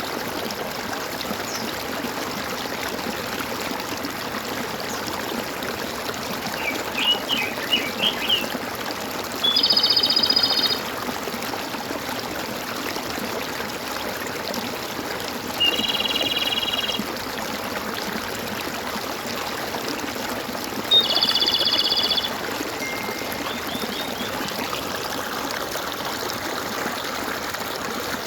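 Small stream trickling and gurgling steadily, with birds calling over it: three loud trilled calls about a second long, spaced roughly five to six seconds apart, and a few short chirps in between.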